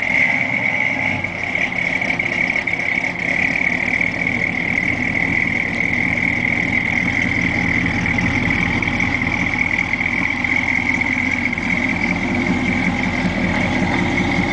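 1969 Ford Fairlane 500's engine idling steadily through its dual exhaust, with a steady high-pitched whine alongside.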